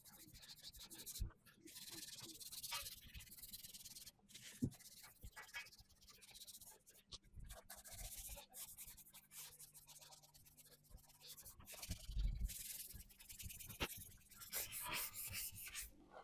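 Scotch-Brite pad rubbed by hand over the primed steel panels of a VW T25 van: irregular scuffing strokes with short pauses between them.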